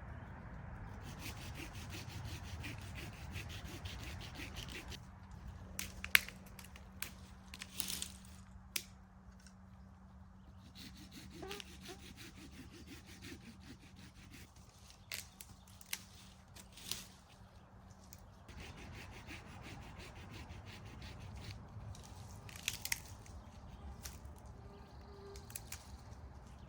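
Close-up handling sounds: rubbing and scraping, with scattered sharp clicks and knocks, over a low steady rumble.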